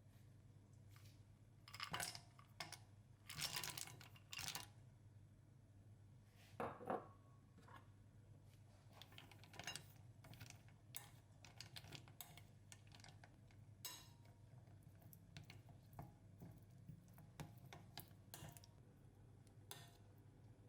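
Quiet scattered clicks and light knocks of objects being handled, with a few louder clatters in the first seven seconds, over a faint steady low hum.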